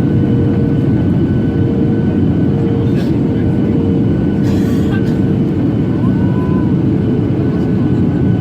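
Boeing 737-800 cabin noise heard from a window seat: a steady, loud rumble of its CFM56 jet engines and the air rushing past, with a faint steady hum on top. A brief hiss comes about four and a half seconds in.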